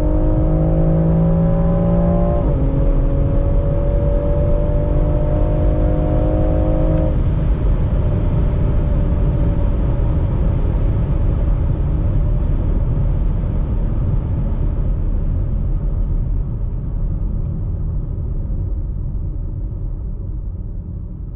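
BMW X3 M Competition's twin-turbo inline-six accelerating hard, its pitch climbing, with a quick gear-change drop about two and a half seconds in. After about seven seconds the engine note dies away, leaving a steady rush of road and wind noise that slowly gets quieter.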